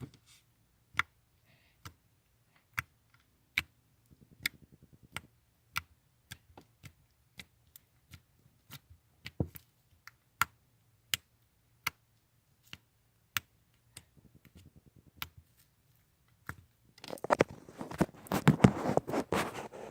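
Homemade slime handled by hand, giving scattered sharp clicks and pops about once a second, then a dense stretch of squishing and crackling for about three seconds near the end.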